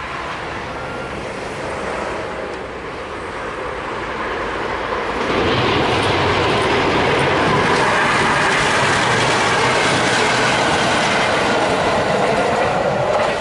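Electric-hauled passenger train, an EA 40 class locomotive with its coaches, running past on the line: the rail noise grows much louder about five seconds in and stays loud and steady, with faint wavering wheel squeal over the rumble.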